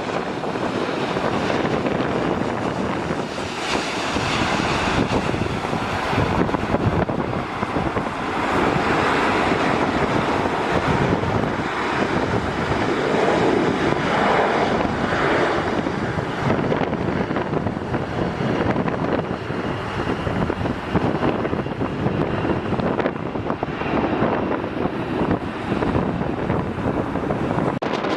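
Strong wind buffeting the microphone, a continuous rushing noise that swells through the middle stretch.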